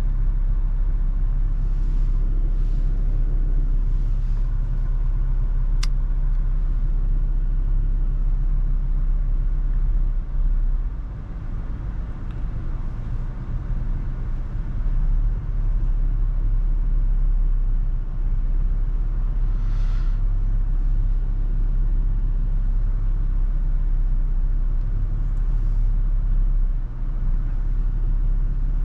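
Steady low rumble of a Toyota FJ Cruiser driving in heavy wind, road and wind noise together, easing briefly about eleven seconds in. A single sharp click about six seconds in.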